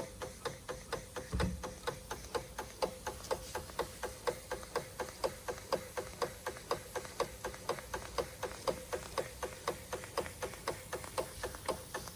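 Märklin 4149/9 toy live steam engine running steadily, its strokes making an even clicking beat of about four a second.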